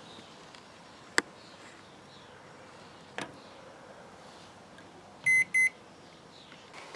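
Microwave oven control panel beeping twice in quick succession, two short high electronic beeps, after a sharp click about a second in and a softer click about two seconds later.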